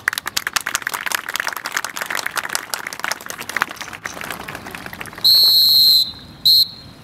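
A rapid, irregular clatter of sharp clicks, then a drill whistle blown in one long blast followed by a short one, signalling the next movement of the drill.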